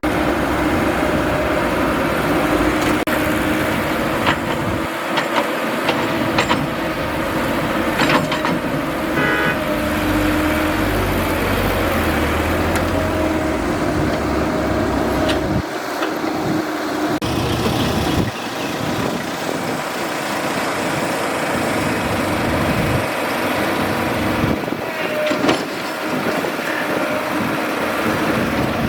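Excavator's diesel engine running continuously while digging, with a steady hum and a few sharp clanks along the way.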